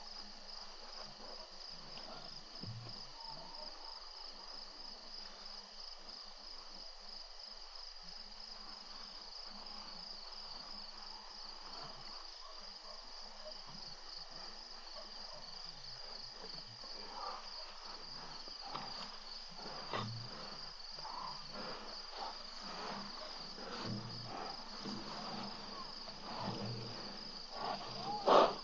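Night insects trilling in a steady, high, continuous chorus. From about halfway in, scattered rustles and knocks close to the microphone build up, ending in one sharp, loud knock near the end.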